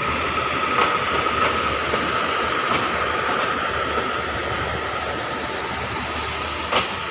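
Passenger train rolling slowly into a station: steady wheel-and-rail rumble with a thin steady whine, and irregular sharp clicks as the wheels cross rail joints. The noise eases a little near the end as the train slows.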